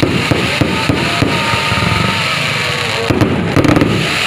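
Fireworks going off, with a dense run of bangs and crackles one after another.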